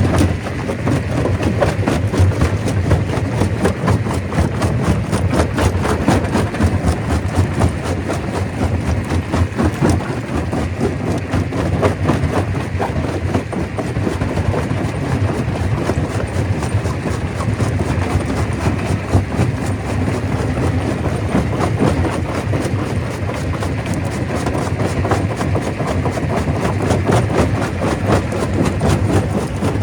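Stone crusher running under load: a steady low machine drone with a dense, continuous clatter of rock being broken.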